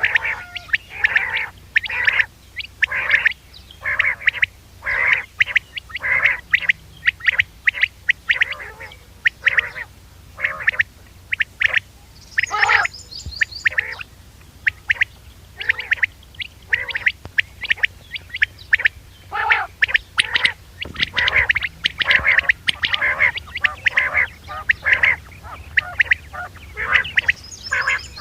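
Common quail calling over and over in quick short notes, about two a second, with an occasional higher-pitched call. This is a recorded lure call used to draw quail in for hunting.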